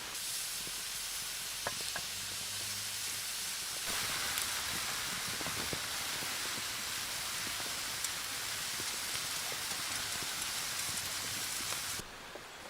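Food sizzling on a thick, hot metal plate over a wood fire: a steady frying hiss with scattered small crackles, growing louder about four seconds in.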